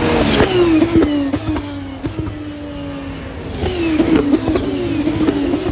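Two racing cars' engines passing one after the other at high revs. Each engine note falls in pitch as the car goes by, first just after the start and again nearly four seconds in, with quick steps in pitch as the gears change.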